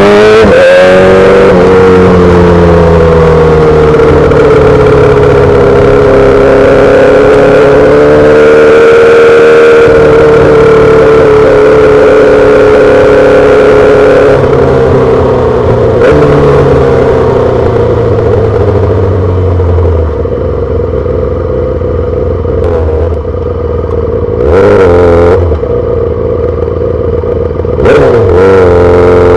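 2008 Yamaha R6's 600 cc inline-four through a full SC-Project exhaust, under way. It finishes a pull about a second in and holds steady revs for over ten seconds. The pitch then falls as the bike slows and it runs quieter at low revs, with a short rev blip a few seconds before the end and a fresh rise in revs at the very end.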